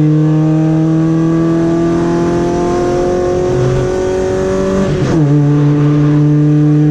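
Golf rally car's engine under hard acceleration, its pitch climbing slowly, then dropping sharply about five seconds in at an upshift before it climbs again.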